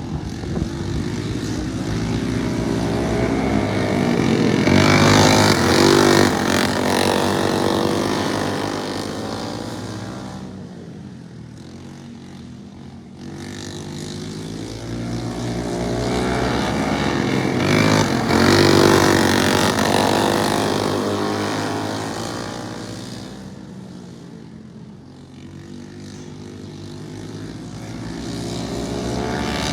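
Racing lawnmowers' engines running flat out as the pack laps the track, swelling loud as they pass twice, about a dozen seconds apart, and fading between, the engine pitch bending as each pass goes by.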